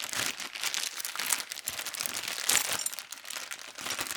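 Packaging crinkling and rustling as it is handled and opened to unwrap the kit's hand jack.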